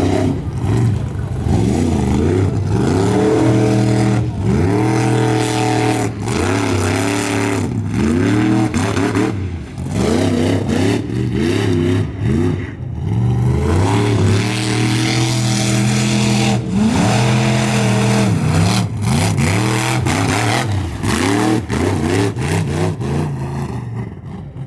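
Mud truck engine revving hard again and again, its pitch climbing and dropping in repeated runs with short breaks between them.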